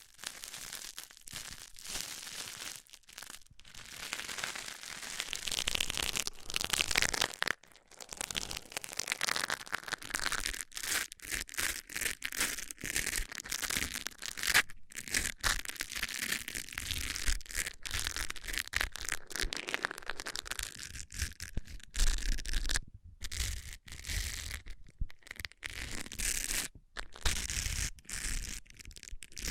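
Fingernails and fingertips tapping and scratching on objects close to the microphone, in a dense, rapid run of crisp taps and crinkly scratches.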